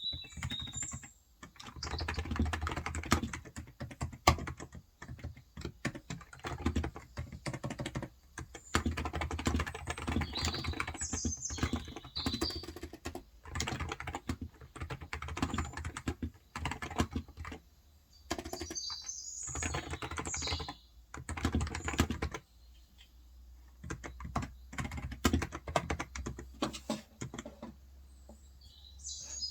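Typing on a Cox Endeavour electro-capacitive tenkeyless keyboard with 35 g switches: dense runs of key clacks in stretches of a few seconds, broken by short pauses. Birds chirp briefly a few times in the background.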